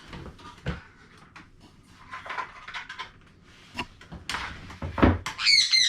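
Props being rummaged and handled: scattered knocks and clatters with a few dull thuds. Near the end a high, repeated squeaking begins.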